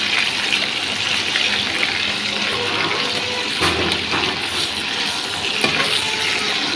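Pork ribs sizzling in hot oil in a frying pan, a steady hiss, with a few light clicks of metal tongs against the pan as the pieces are turned.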